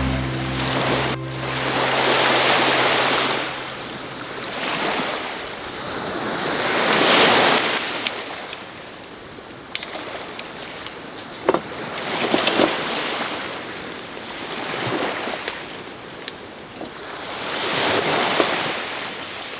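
Sea waves washing onto the shore in slow surges, one about every five seconds, with wind. A few short clicks come about halfway through.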